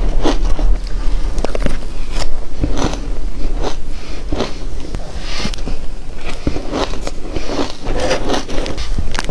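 Teeth biting and crunching through frozen matcha ice close to the microphone, one hard crunch roughly every second, each with a crackle of breaking ice.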